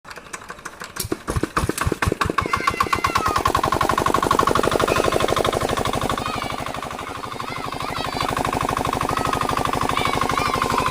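Old diesel water-pump engine starting: a few separate firing knocks about a second in that quickly speed up into a fast, even run of exhaust beats as it settles into running.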